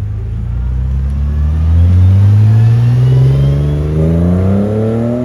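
Car engine accelerating, its pitch rising steadily and evenly for about five seconds.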